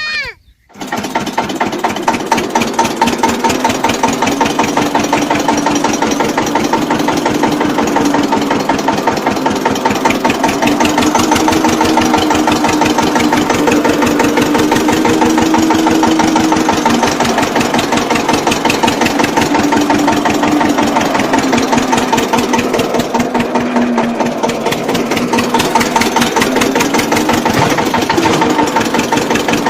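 Small engine of a mini tractor running steadily with a fast, even firing beat. Its pitch rises and falls a little. It starts abruptly about half a second in.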